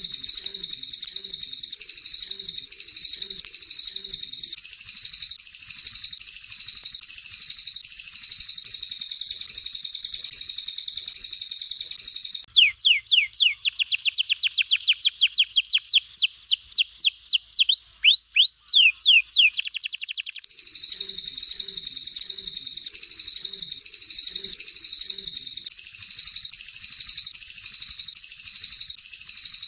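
Recorded songbird masteran: a canary's dense, continuous rolling high song. About twelve seconds in, it gives way for some eight seconds to a rapid string of whistled notes each sliding down in pitch, several a second, from a cililin. The canary's rolling song then resumes.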